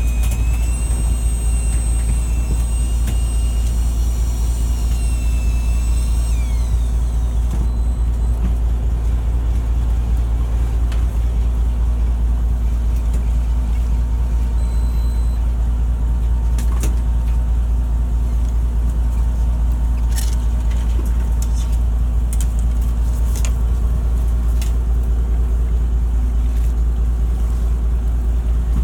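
A fishing boat's engine running with a steady low drone. A high thin whine sounds over it for the first six seconds and then drops away, and a few light clicks come later.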